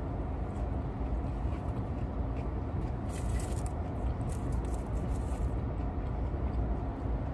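Close-up chewing, with faint wet mouth smacks and finger-licking clicks about three to five seconds in, over the steady low hum of a car cabin.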